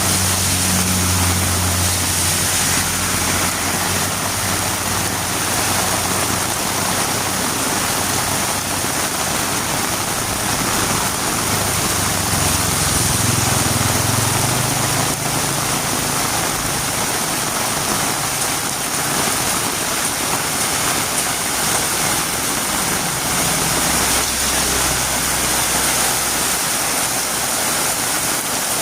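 Heavy rain falling steadily on a road, a dense even hiss. A low rumble swells and fades three times: at the start, about halfway through and near the end.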